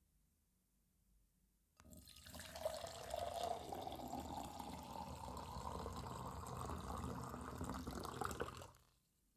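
Water running, starting with a click about two seconds in and cutting off shortly before the end, its tone rising slowly as it goes.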